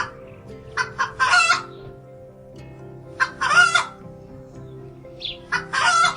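Chicken clucking: runs of quick, short clucks, each ending in a longer, louder call, three times over.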